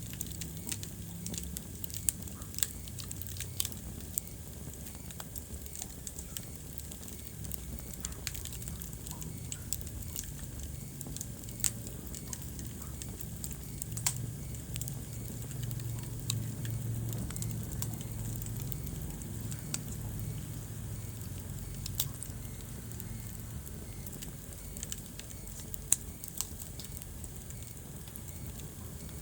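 Wood fire crackling in a fireplace, with scattered sharp pops over a steady low rumble of burning.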